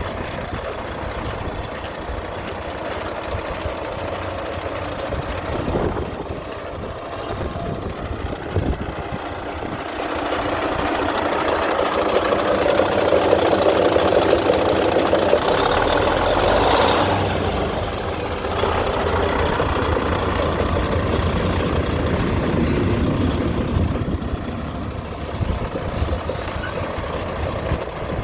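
2004 Volvo 630 semi truck's diesel engine running, growing louder about ten seconds in and easing back down after about eighteen seconds.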